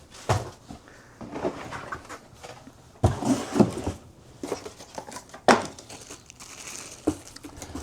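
Plastic packaging and parts being handled while accessories are unpacked from a box: irregular rustling and crinkling with light clicks and knocks, and a couple of sharper knocks about three and five and a half seconds in.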